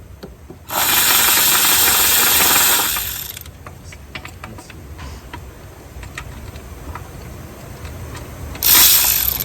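A loud steady hiss for about two and a half seconds, starting just under a second in, and a second shorter hiss near the end. Faint clicks of hand tools sound between them.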